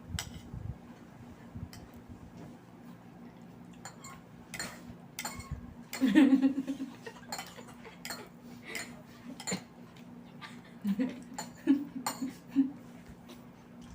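Eating utensils clinking against a plate or bowl during a meal, in scattered short clicks, with a louder stretch of noise about six seconds in.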